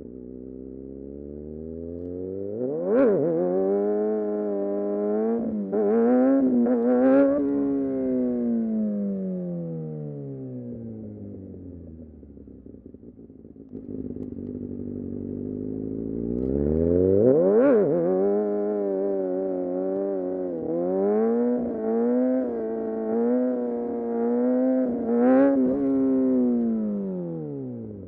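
Kawasaki Ninja ZX-6R inline-four engine accelerating hard twice, its pitch climbing and stepping through several quick upshifts each time, then falling away as the throttle is rolled off and the bike slows.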